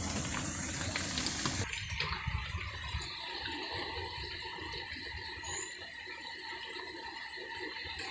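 Steady rushing water, with a low rumble through the first two seconds or so.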